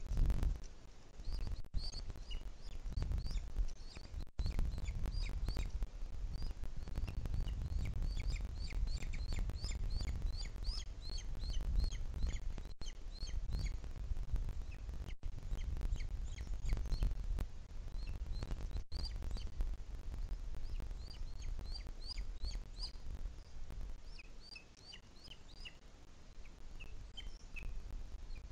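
Birds calling: many short, high chirps in quick series, over a low rumble.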